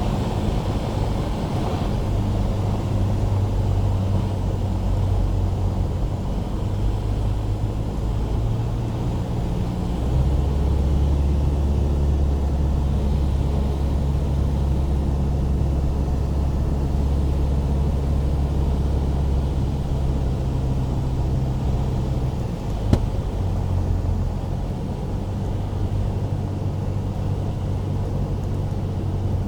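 Single-engine Cessna's piston engine and propeller running with a steady drone. About a third of the way in the drone grows louder and deeper, a change in power, and it drops back again past the two-thirds mark, just before a single sharp click.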